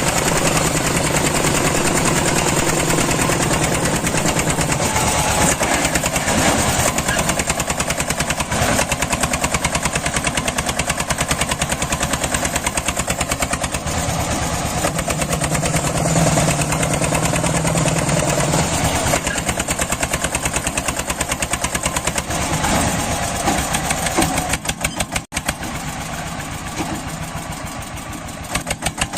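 Tractor engine running steadily with a rapid, even firing beat; it cuts out briefly about 25 seconds in and comes back a little quieter.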